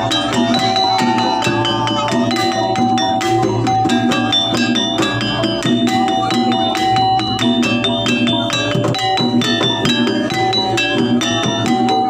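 Live jaranan ensemble music: dense, quick drum strokes under ringing gamelan-style metal percussion playing short interlocking notes, with a recurring held high tone.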